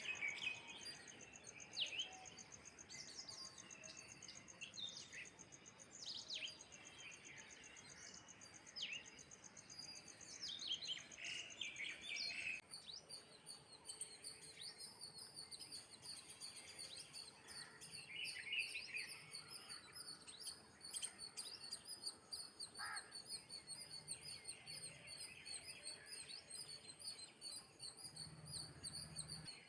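Birds chirping and calling in quick, short falling notes; about halfway through the sound changes abruptly to a fast, steady, high-pitched trill with occasional calls over it.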